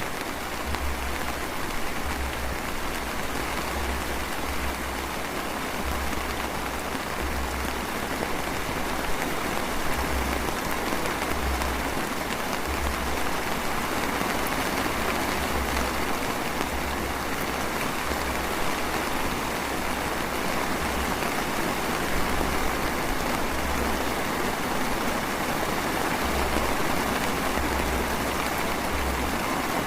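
Drizzle falling steadily, an even patter of raindrops, with a low rumble that comes and goes every second or two.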